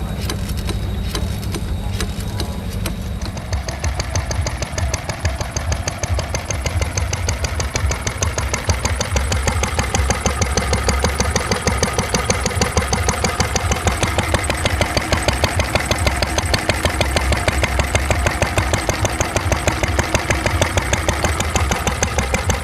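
A stationary engine running with a fast, even beat. The beat sets in about three seconds in and grows louder from about eight seconds, over a steady low hum.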